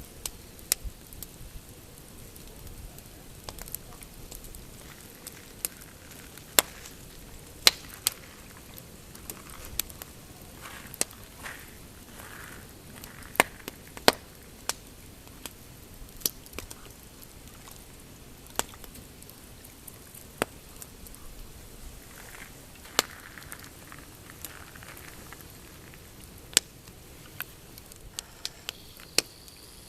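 Pine campfire crackling, with sharp irregular pops every second or so over a soft steady hiss.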